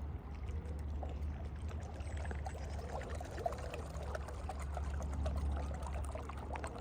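Water pouring and churning, over a steady low rumble, with faint short chirps scattered through.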